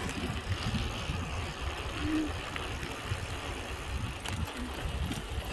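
Wind buffeting the microphone of a moving bicycle rider, a steady low rumble.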